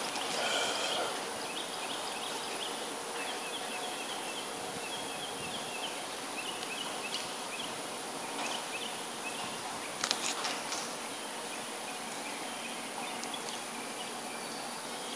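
Birds calling in the trees, short high notes repeated quickly in groups, over steady outdoor background noise; a couple of faint clicks about ten seconds in.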